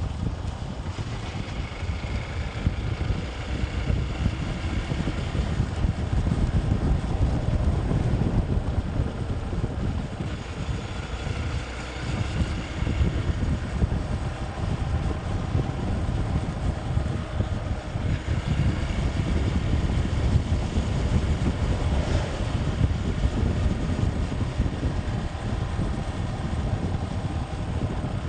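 Wind buffeting the microphone on a moving motorcycle, a continuous fluttering rumble, with the bike's engine faintly audible underneath.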